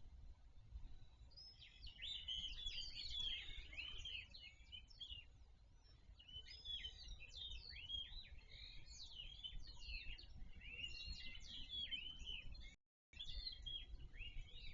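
Several birds chirping and calling at once, a dense chorus of quick, sliding high calls that thins for a moment in the middle, over a steady low rumble. The sound drops out completely for a split second about thirteen seconds in.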